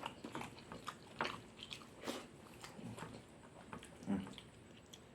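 Close-up chewing and biting of food, with scattered wet clicks and smacks from the mouth, and a brief low voiced sound about four seconds in.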